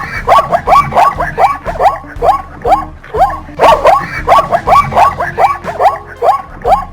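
Plains zebra barking: a rapid run of short, high yapping calls, about three a second.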